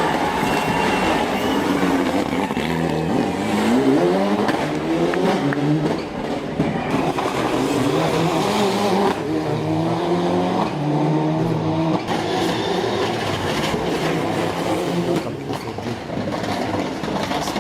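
Mitsubishi Lancer Evolution VI's turbocharged four-cylinder engine at full race effort, climbing in pitch again and again and dropping back at each gear change or lift.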